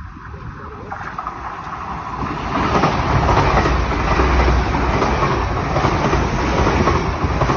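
Train passing close by on the line: its rumble and wheel-on-rail noise grow louder over the first three seconds, then stay loud and steady.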